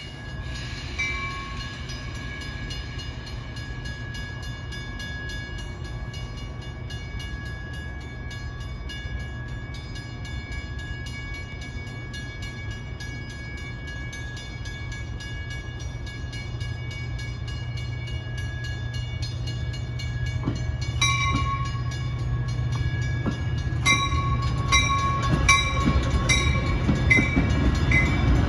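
Metra double-deck diesel commuter train approaching and passing close by, a steady low rumble that grows louder as it nears. High ringing tones sound through it and come in short repeated pulses over the last few seconds.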